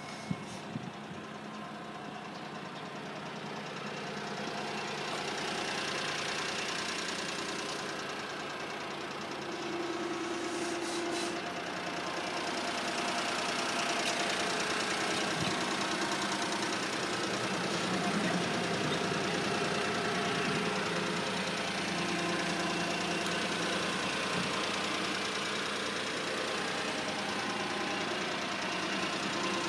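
Honda Acty kei truck's small 656 cc three-cylinder E07A engine running steadily, most likely at idle, a little louder from about a third of the way in.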